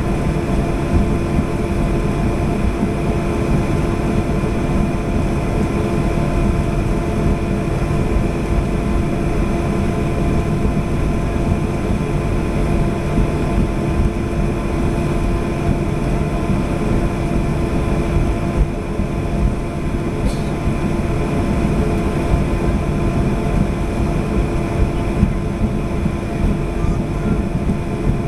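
Airliner engines running steadily at low power, heard from inside the passenger cabin: a constant rumble with a few held tones on top.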